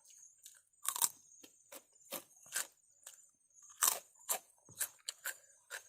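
Someone biting and chewing crunchy food close to the microphone: a run of irregular crisp crunches, about two a second, the loudest about a second in and near four seconds.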